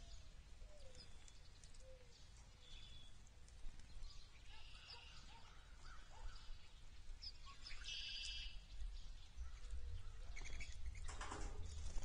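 Small songbirds chirping in short, scattered calls, with a brief buzzy call about eight seconds in over a steady low rumble. Near the end come a few louder rustling sounds.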